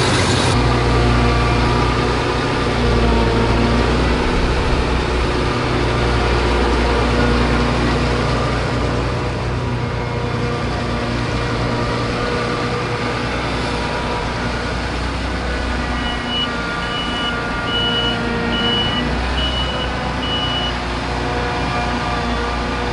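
Claas Lexion 750 Terra Trac combine harvester's diesel engine running steadily. A little past two-thirds in, its reversing alarm gives a run of evenly spaced high beeps for several seconds.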